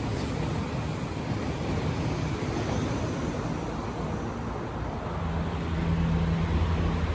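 KTMB ETS electric multiple-unit train approaching: a steady low hum and tone come in about five seconds in and grow louder over wind and ambient rumble.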